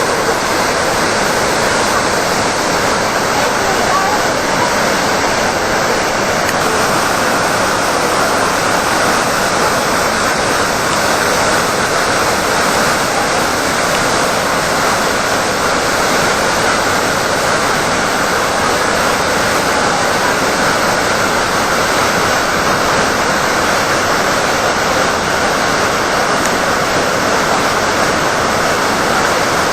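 Khone Phapheng Falls on the Mekong River: a large waterfall sending a loud, steady rush of falling water.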